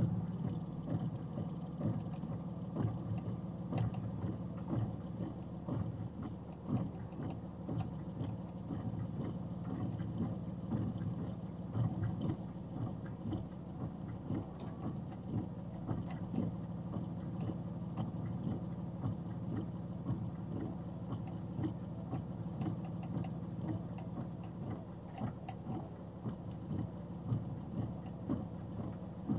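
A steady low engine hum, like an idling vehicle, with frequent light, irregular clicks over it.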